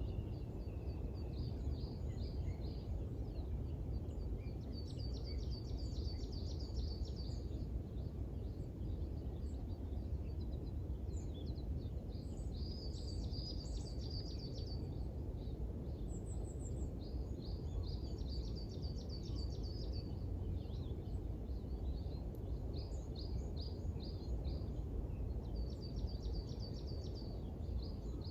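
Small birds chirping and twittering in quick high runs of notes that come and go, over a steady low rumble of background noise.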